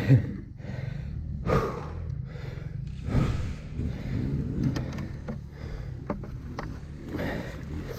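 A dirt-bike rider breathing hard and panting, catching his breath after struggling up a steep hill, over the low, steady sound of the bike's engine idling.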